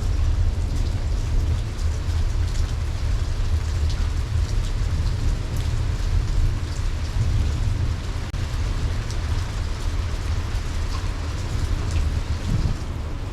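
Steady rain falling, with many individual drops ticking, over a continuous low rumble of thunder.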